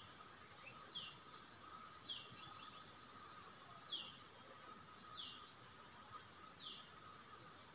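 A bird repeats a short falling call about once a second, faint, over a steady thin insect drone.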